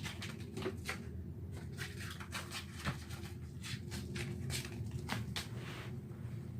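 Crumpled paper ball crackling and tapping as a cat bats at it, a string of short, irregular rustles over a steady low hum.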